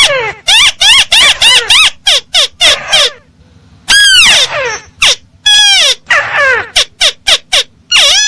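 Recorded lure call of a crake (burung tikusan) played back loud: a rapid run of arched call notes, about four a second, broken by a short pause about three seconds in.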